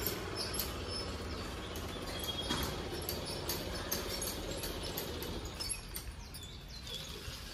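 Small birds chirping repeatedly over a steady outdoor background noise with a low hum.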